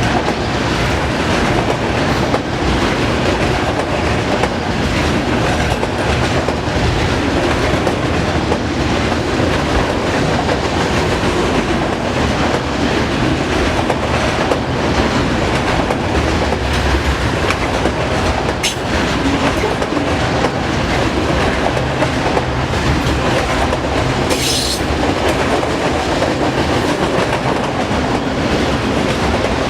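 Autorack freight cars of an auto train rolling past in a steady, loud rumble, with the wheels clicking over rail joints. There is a sharp click and, a few seconds later, a brief high wheel squeal.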